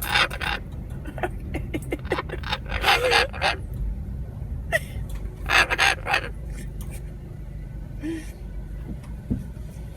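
Moluccan cockatoo giving short, harsh, excited calls in several loud bursts, the biggest near the start, about three seconds in and about six seconds in, over the steady low hum of a car's idling engine.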